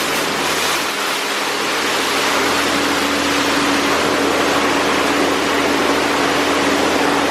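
High-pressure water spraying against a car in a PDQ Laserwash 4000 touchless automatic car wash, a loud steady hiss. A steady machine hum joins in a couple of seconds in.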